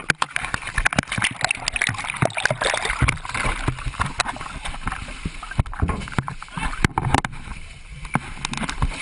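Water sloshing and splashing inside a ditched small plane's flooding cabin, with many sharp knocks and bumps as passengers scramble for the exits, and a few voices.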